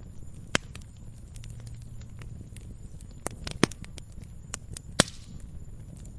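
Wood campfire crackling: irregular sharp snaps and pops of burning wood, the loudest about half a second, three and a half and five seconds in, over a low steady rumble.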